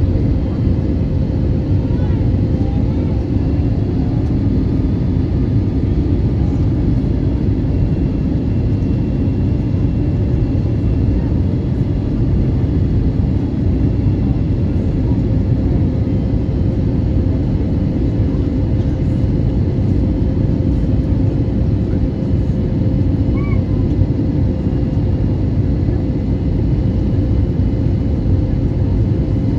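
Steady cabin noise inside an Airbus A320neo in flight, heard from a window seat: a loud, even rush of engine and airflow noise with a steady hum, during the descent to land.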